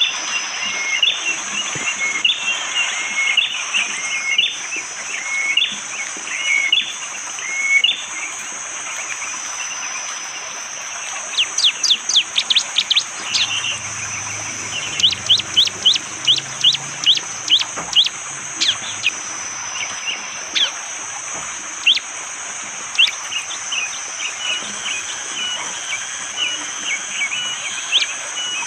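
Bar-winged prinia (prenjak jali) singing: first a run of repeated short chirps, then rapid volleys of sharp, falling notes in quick succession, over a steady high-pitched forest drone.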